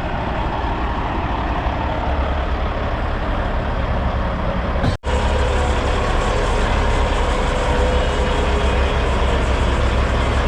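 Heavy diesel truck engine running steadily with a deep low rumble. The sound cuts out for a split second about five seconds in, then the rumble carries on.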